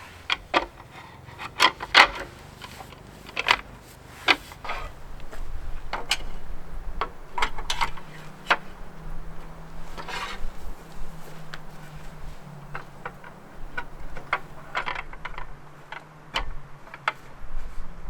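Irregular clicks and knocks with a few short scraping sounds, unevenly spaced, over a faint low hum.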